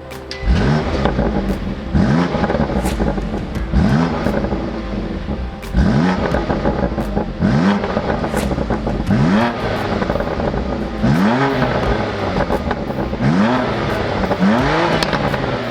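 High-performance car engine and exhaust revved again and again, about eight times: each rev rises sharply in pitch and then drops back.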